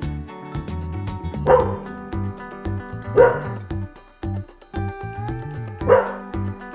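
A dog barking three times, spaced about one and a half to two and a half seconds apart, over background music with a repeating bass line.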